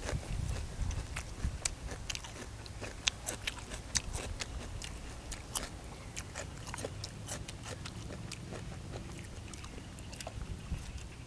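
A person chewing and eating close to the microphone, with many irregular sharp clicks and crunches.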